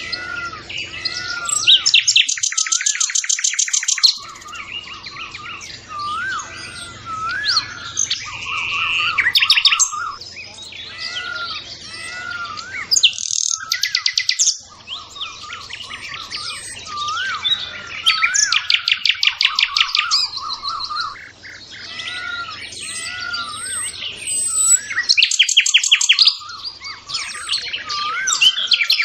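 Several songbirds singing and chirping together. Short rising whistled notes repeat throughout, and fast rattling trills break in every few seconds.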